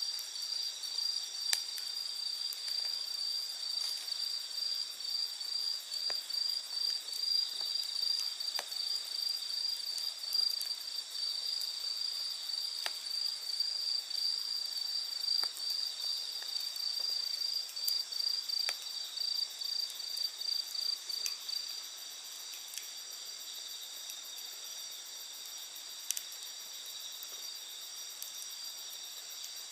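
Night insects trilling steadily in high pitch, with one pulsing chirp that stops about two-thirds of the way through, over the scattered small pops and crackles of a wood campfire.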